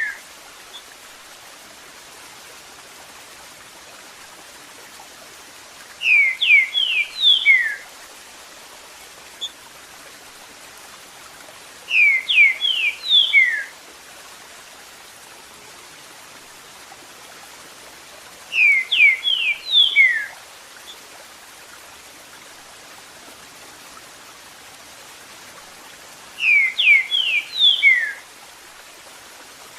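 Green-winged saltator (trinca-ferro) singing its 'eu sou terrível' song: four phrases spaced several seconds apart, each a quick run of five or six clear down-slurred whistles lasting about two seconds, over a steady hiss of running water.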